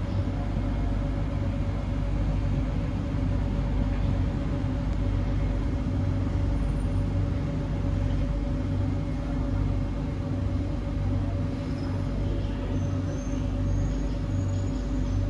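Cabin noise inside a Kawasaki C151B MRT train running and pulling into a station: a steady low rumble of the wheels on the rails with a constant hum. Faint high tones come in near the end as it slows for the platform.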